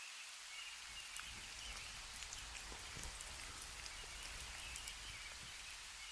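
Scattered drops of water falling in a forest during a thaw, small irregular ticks over a faint steady hiss.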